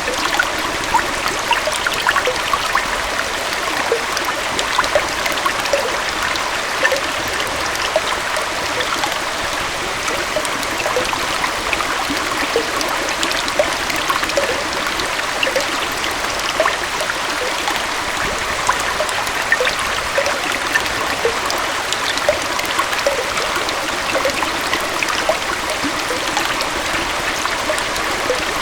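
Small waterfall and stream: water running and splashing steadily over rocks, with many small bright splashes and gurgles all through.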